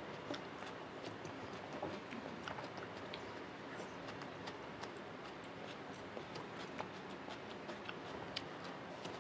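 A person eating rice and chicken curry by hand, close to a lapel microphone: chewing and mouth noises heard as soft, irregular clicks over a steady hiss.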